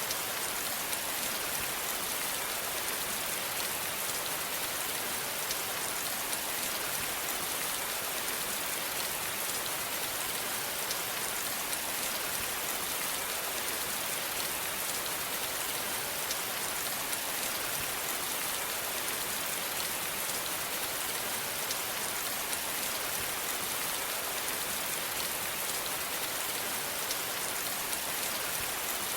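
Steady rain falling on a surface, an even hiss of many small drop ticks with no change in strength.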